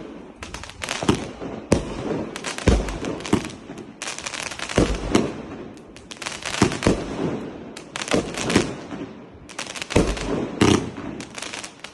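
Firework batteries (cakes) firing rapid volleys of sharp bangs and crackling bursts, several a second, in clusters with short pauses between them.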